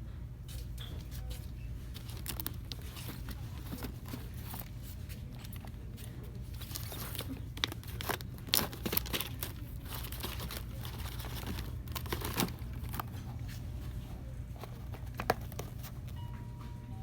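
Shop-floor ambience: a steady low hum with scattered crinkling and rustling of packaging and light clicks, busiest about halfway through. A faint short tone sounds near the end.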